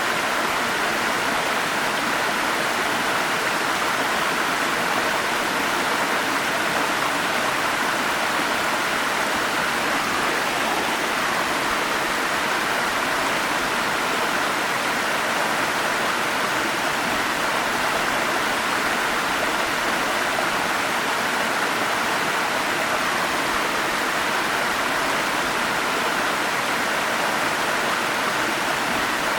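Forest stream and small waterfall: water flowing and splashing over rocks in a steady, even rush.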